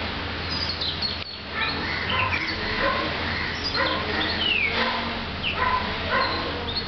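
Several birds calling and chirping at once: short repeated notes and a few downward-sweeping calls, overlapping throughout.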